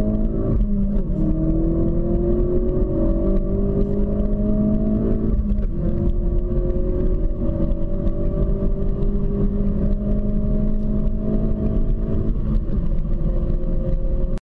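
Ford Focus RS (2016) 2.3-litre turbocharged four-cylinder engine accelerating hard at full throttle, its pitch climbing slowly in each gear. It upshifts twice, about half a second in and about five and a half seconds in, and the sound cuts off just before the end.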